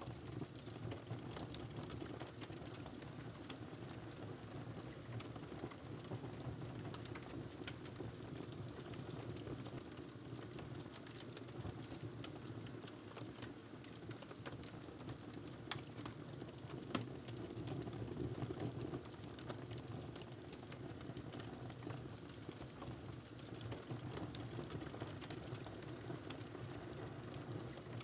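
Wood fire crackling in a fireplace: a steady low rush with scattered small pops and snaps, two sharper pops a little past the middle.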